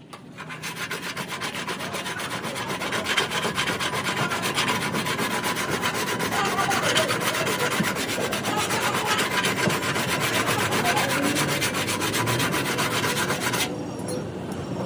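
Steady, rapid abrasive rubbing on a car body panel, like sanding, building up over the first second and stopping suddenly near the end.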